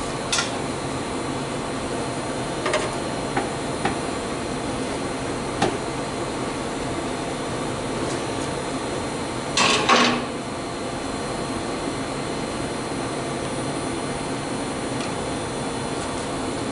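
Scattered metallic knocks and clanks from hand work on a car's exhaust pipes and tools, with a louder cluster of clanks about ten seconds in, over a steady background hum.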